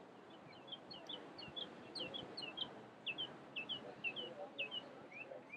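Birds chirping: a quick, steady stream of short high notes, louder from about two seconds in, over a low steady background hiss.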